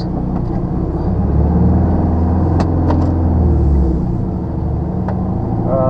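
Lorry's diesel engine running steadily while driving, a low drone heard from inside the cab, with a few sharp clicks around the middle.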